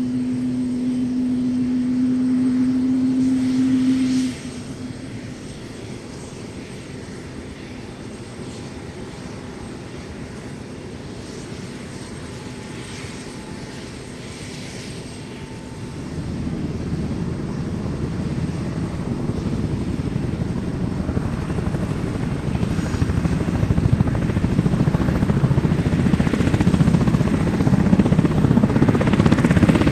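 Sikorsky UH-60 Black Hawk helicopter, its rotor chop and turbine noise growing steadily louder from about halfway through as it comes closer. Before that, a steady hum cuts off suddenly about four seconds in.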